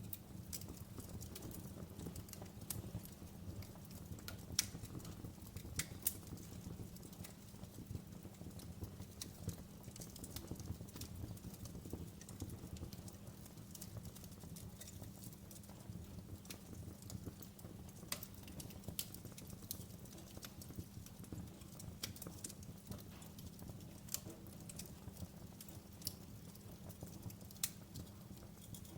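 Fireplace fire crackling: irregular sharp pops and snaps, a couple of louder ones about five seconds in, over a low steady rumble.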